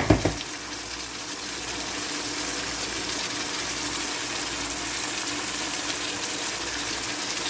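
Chicken and potato chunks frying in a pan: a steady, crackling sizzle, with a few sharp knocks at the very start.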